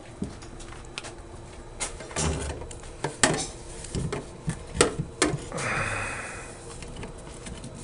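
A drain pipe being worked up through a hole in the floor: irregular knocks and clunks as it is pushed and twisted, with a scraping rub lasting about a second near the middle.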